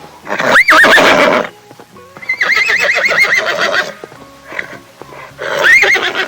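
Horse whinnying three times: a high squealing neigh about half a second in, a longer quavering whinny from about two to four seconds, and another short squeal near the end.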